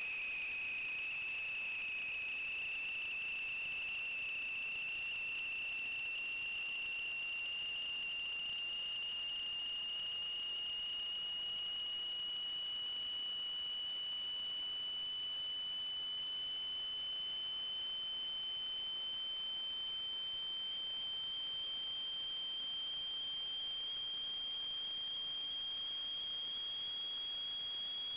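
A steady high-pitched tone, with a fainter tone an octave above it, slowly rising in pitch, over a faint hiss.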